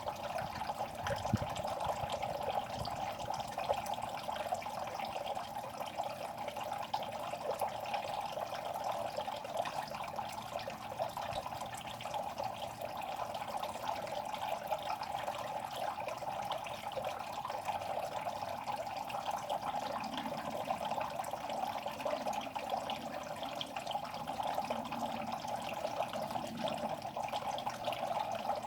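Water in a fish pond, trickling and splashing steadily with many small crackling drips.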